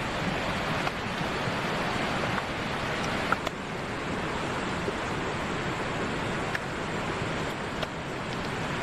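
Steady rushing outdoor noise, with a few faint ticks and snaps, one of them about three and a half seconds in.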